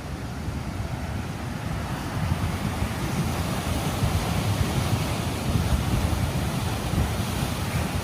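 Strong storm wind rushing and buffeting the microphone, a steady noise heavy in low rumble that grows louder about two seconds in.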